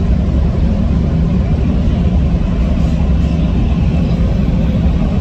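Steady low rumble and rushing noise of a Shinkansen in motion, heard from inside the car's door vestibule.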